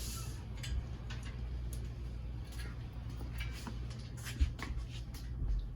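Scattered light clicks and ticks of hands and a tool working at the plastic push-pin fasteners on a pit bike's bodywork, with one duller knock about four and a half seconds in, over a steady low hum.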